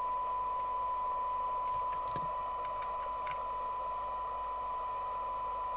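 SMC Oscar 1 CB radio's speaker playing a steady test tone in hiss: the demodulated signal from a signal generator, heard while the receiver's IF stages are being aligned against a SINAD meter. A few faint clicks come about two to three seconds in.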